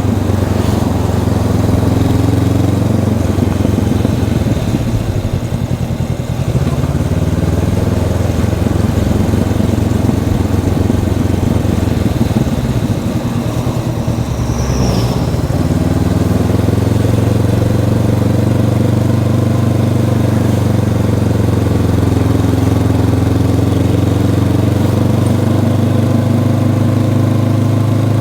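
Honda CB500X's parallel-twin engine with its stock exhaust, running under way on the road. The engine note wavers and changes for much of the first half, then holds steady from about halfway on.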